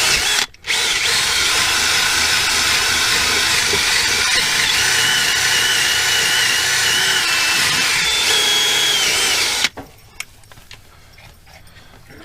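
Handheld power buffer running steadily against the rubber of a tractor tire's inner tube, roughing the surface to prepare it for a patch. It drops out briefly about half a second in and cuts off suddenly near the end.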